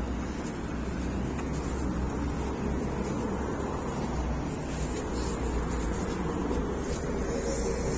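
MAZ-103 city bus heard from inside the cabin: a steady low engine rumble with general cabin noise.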